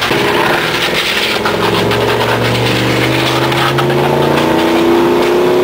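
A lifted Chevrolet Silverado pickup's engine with Flowmaster exhaust pulls steadily, its pitch slowly rising as it accelerates. Underneath runs a rough scraping of a water heater being dragged along the road on chains.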